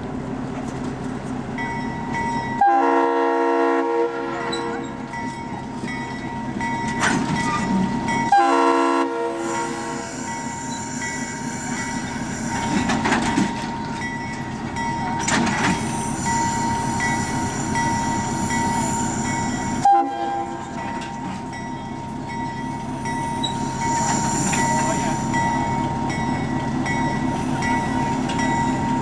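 A diesel locomotive horn sounds two blasts of about a second each, about 3 and 8.5 seconds in, over the steady running noise of a moving train on the rails.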